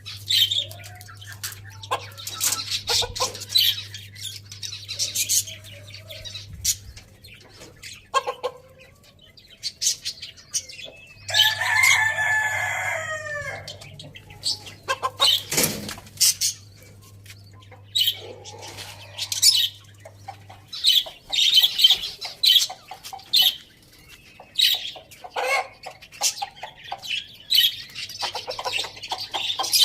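Chickens clucking, with many short sharp clicks and taps throughout. About eleven seconds in, a rooster crows once, a call lasting about two and a half seconds.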